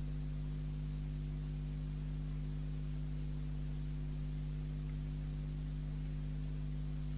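Steady low electrical mains hum with a faint hiss behind it, unchanging throughout.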